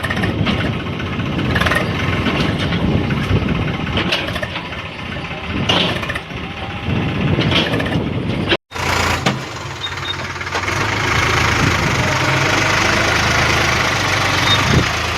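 Swaraj tractor's diesel engine running, with a brief dropout about nine seconds in, after which it runs on more steadily.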